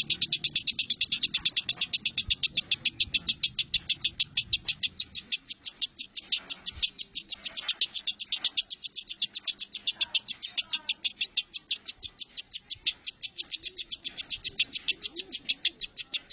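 Lovebird ngekek: a long, unbroken run of rapid, high-pitched chattering notes, about six a second, kept going without a pause.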